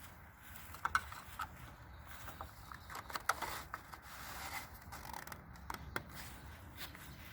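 Light scattered clicks, ticks and scrapes of small parts being handled as a lawnmower air filter and its cover cap are fitted, with a few sharper clicks about a second in, around the middle and near the end.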